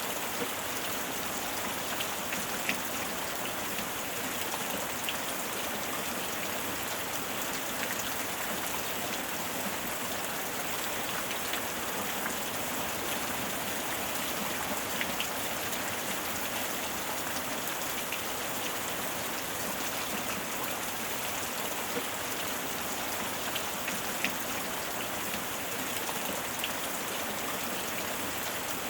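Steady heavy rain falling on surfaces: an even hiss with scattered individual drop ticks.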